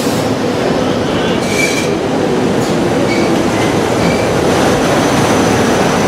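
Commuter train running through the station: a loud, steady rush of wheels on rail, with a few brief, faint high-pitched wheel squeals.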